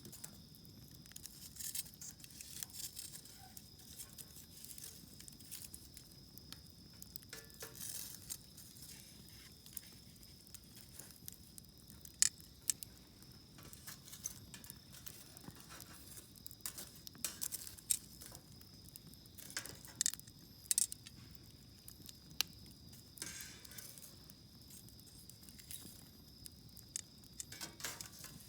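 Wood campfire crackling, with irregular sharp pops and snaps, a few of them louder than the rest. A steady high-pitched tone runs behind it.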